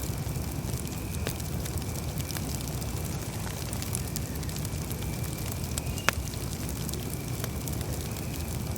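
Campfire burning, with a low steady rumble and scattered crackles and pops from the burning wood, and one sharp, louder pop about six seconds in.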